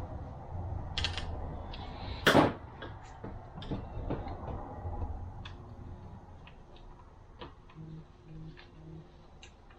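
Scattered metal clicks and taps from transmission parts being handled and fitted on a workbench, with one loud sharp knock a little over two seconds in.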